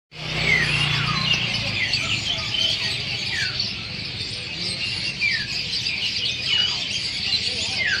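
A dense chorus of many small caged birds chirping and twittering together, with loud downward-sliding whistles standing out about once a second.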